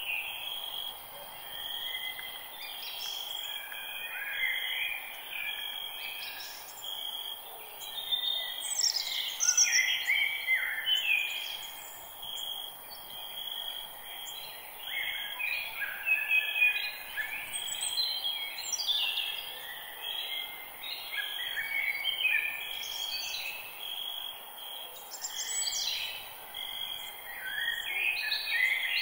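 Forest ambience: many birds singing and calling in short chirps and whistled phrases, over a steady high insect trill.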